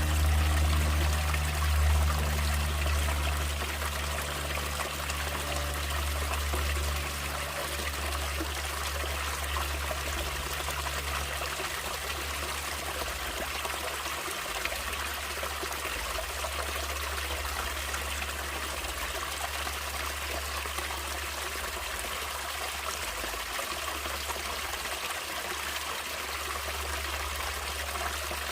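Natural water running and trickling steadily, with a low rumble under the splashing. Soft music fades out during the first several seconds.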